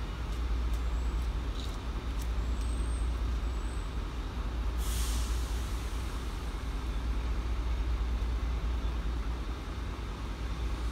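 Steady low rumble of an approaching train, with a short hiss of released air about five seconds in.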